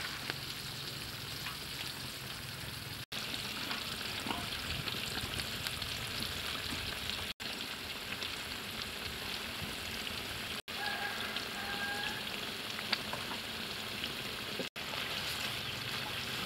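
Beef and vegetables frying in a large iron wok, a steady sizzle broken by four brief gaps where the audio is cut.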